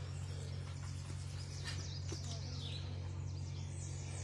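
Wild birds singing faintly, several short chirps and downward-sliding calls, over a steady low hum.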